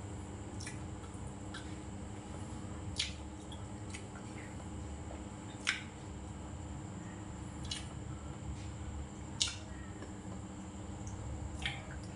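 Wet mouth clicks and smacks of a man chewing food with his mouth closed, a few sharper ones every two or three seconds, over a steady low room hum.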